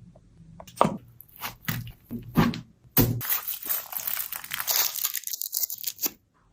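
Crunching and crinkling sounds of food being handled. There are a few separate crunches, then dense crackling from about three seconds in that stops abruptly near the end.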